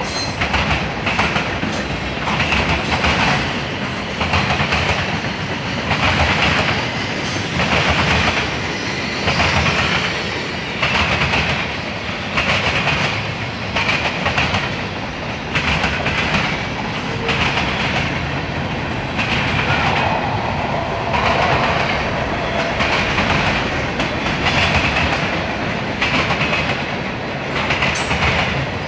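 Freight cars of a manifest train, mostly tank cars, rolling past: steel wheels clicking over the rail joints in a regular rhythm, a loud clatter every second or two over a steady rolling noise.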